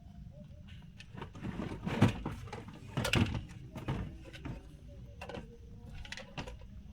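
Irregular knocks and clattering of hard objects over a low steady rumble, loudest about two and three seconds in.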